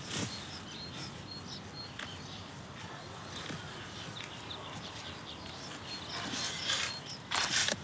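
Birds chirping in quiet rural surroundings: a short high note repeated again and again, with a few light clicks. A louder burst of noise comes near the end.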